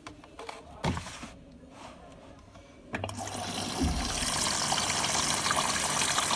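Hotpoint WT761 Ultima washing machine taking in water: a couple of clicks in the first second, then about three seconds in the water starts to rush into the drum and keeps running steadily, with a low hum under it.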